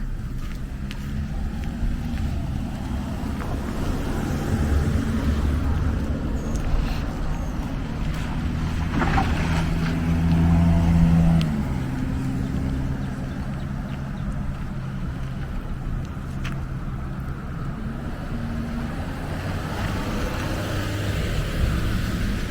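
Street traffic: passing vehicles' engines and tyres as a steady low rumble, with one vehicle loudest about ten seconds in before it fades away.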